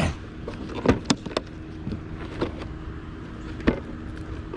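Irregular sharp knocks and clicks from the Arrma Big Rock 223S RC truck and its plastic parts, over a steady low hum.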